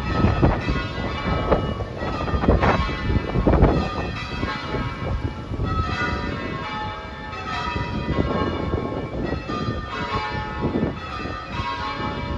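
Church bells ringing, many strikes overlapping in a continuous peal, with wind buffeting the microphone.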